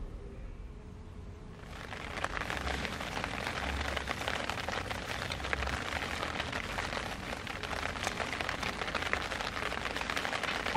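Rain falling steadily, a dense patter of drops that comes up about two seconds in.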